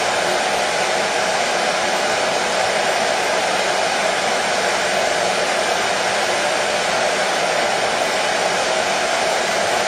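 Electric hair dryer running steadily, an even blowing noise with no change in pitch or level, played as white noise to soothe a colicky baby.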